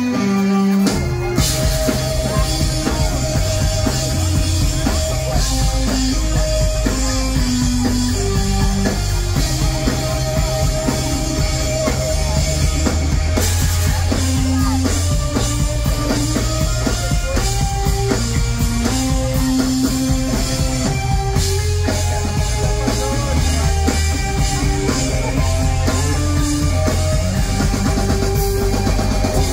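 Live pop-punk band playing an instrumental passage with no vocals: drum kit keeping a steady beat under bass and electric guitar, with a melodic lead line of held notes on top.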